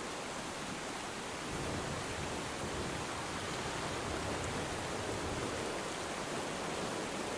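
Steady rainfall hiss mixed with soft ocean surf, swelling slightly about one and a half seconds in.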